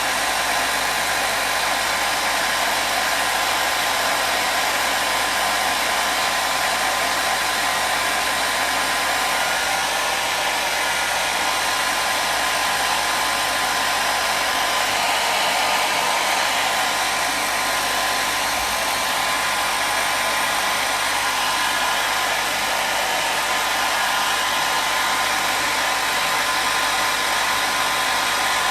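Hair dryer running steadily: an even, unbroken rush of air with a faint motor hum, used as white noise.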